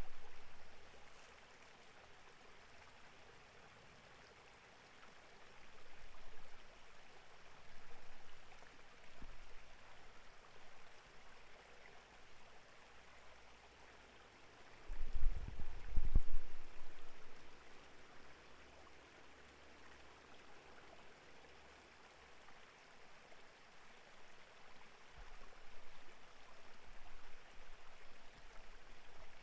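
Clear mountain stream flowing steadily. A brief low rumble about halfway through is the loudest moment.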